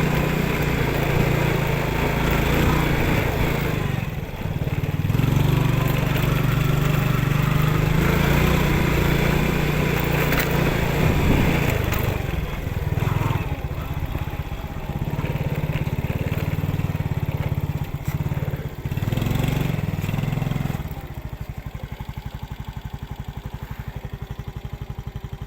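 Yamaha Finn's small single-cylinder four-stroke motorcycle engine pulling under varying throttle on a rough dirt track, rising and falling. About 21 seconds in it drops to a quieter, even idle.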